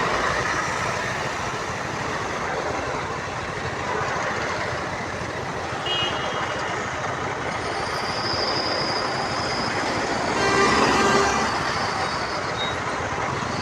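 City street traffic noise: a steady hum of passing vehicles, with a louder, briefly pitched sound from a vehicle about eleven seconds in.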